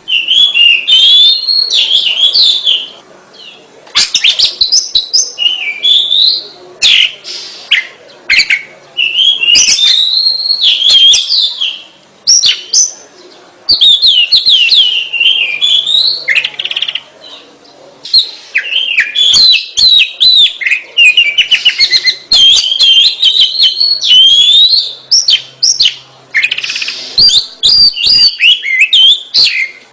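Oriental magpie-robin (kacer) singing loudly in full song: quick, ever-changing phrases of whistles, trills and chattering notes, broken by short pauses of about a second now and then.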